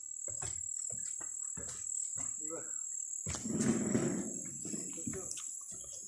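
Rainforest insects droning steadily at a high pitch, with irregular short knocks and a louder rustling patch about three and a half seconds in.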